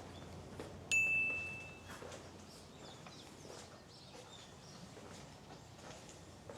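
A single high, clear ding, like a small bell or chime struck once, about a second in, ringing for about a second as it fades. Underneath are faint outdoor ambience and small bird chirps.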